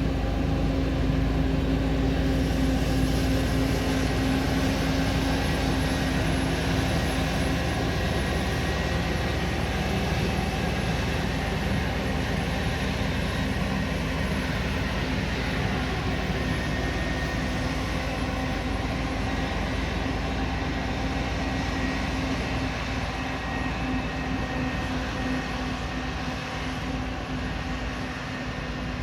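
Heavy diesel farm machinery running steadily: a continuous engine drone with a held hum, growing slightly quieter near the end.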